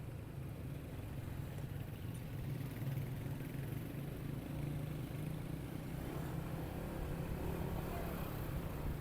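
Motorcycle engine running steadily on the move, with wind and road noise over it; the engine gets a little louder a few seconds in.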